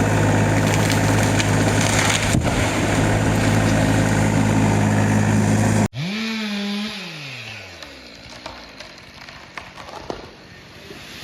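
Chainsaw running at full throttle as it cuts through wood, steady and loud for about six seconds. After an abrupt cut, a quieter chainsaw engine drops in pitch as it is throttled back toward idle, with a few faint clicks.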